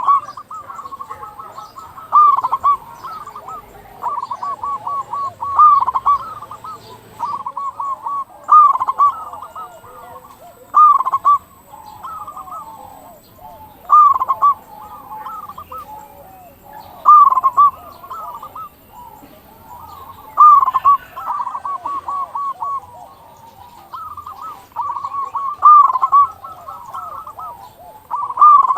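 Zebra doves (local perkutut) cooing in repeated phrases, about every three seconds. Each phrase is a loud coo followed by a quick run of softer notes.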